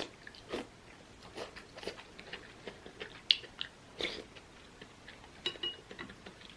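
Close-miked chewing and eating: wet mouth smacks and clicks in an irregular run, with one sharper click a little after three seconds.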